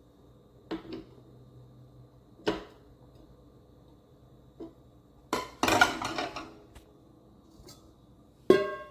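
Metal kitchenware being handled: a few light knocks, then a longer clatter about five seconds in, and a sharp clink that rings briefly near the end.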